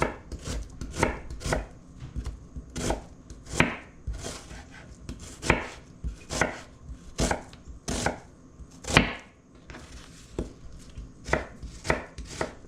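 Knife chopping food on a cutting board: irregular single strokes roughly every half second to a second, with a short pause about two-thirds of the way through.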